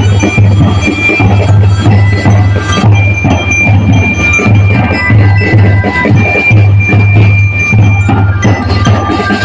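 Drum and bugle corps playing: a steady bass-drum beat under long held high brass notes that change pitch every second or so.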